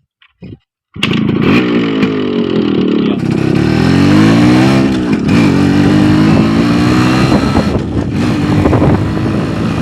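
Yamaha RX 135's air-cooled 132 cc two-stroke engine revving as the motorcycle pulls away and accelerates, starting abruptly about a second in. Its pitch climbs and drops back several times, then holds steadier near the end.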